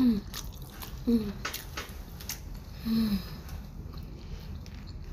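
Close-up mouth sounds of a person chewing food, wet clicks and smacks, with three short falling 'mm' hums through closed lips: near the start, about a second in, and about three seconds in.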